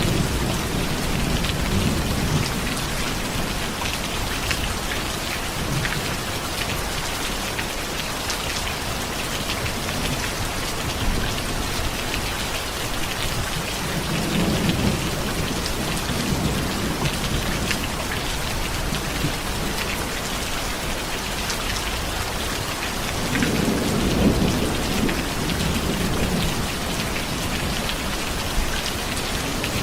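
Steady rain falling, with low thunder rumbling three times: at the start, about halfway, and most strongly about four-fifths of the way through.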